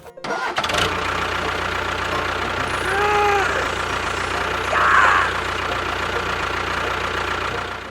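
A motor running steadily with a hissing, rattly noise and a low hum. About three seconds in there is a short tone that rises and falls, and about five seconds in a brief louder burst.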